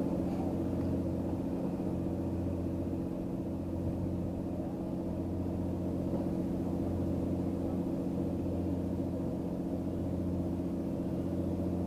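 Steady low hum of an idling engine, holding one unchanging pitch.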